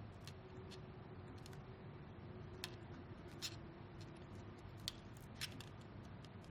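Faint, scattered small clicks and ticks of ventilator parts being handled during disassembly, a few louder ones near the middle, over a faint steady hum.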